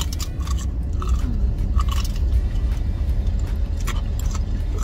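Crunchy deep-fried corn dog being bitten and chewed close to the microphone, with irregular crisp crunches. A steady low hum sits underneath.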